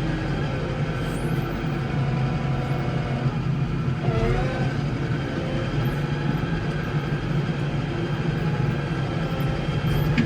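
Case 115U garden tractor engine running steadily under load, with a brief wavering whine about four seconds in.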